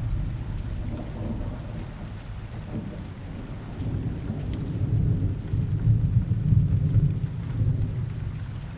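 Rain falling steadily, with a low rolling rumble of thunder that swells about halfway through and stays up to near the end.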